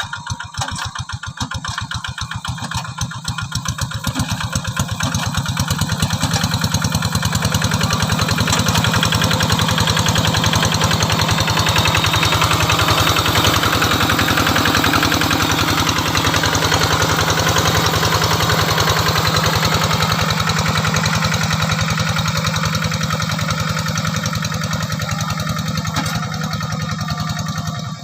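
Quick G3000 two-wheel hand tractor's single-cylinder diesel engine chugging steadily while plowing. It grows louder toward the middle and eases off again near the end.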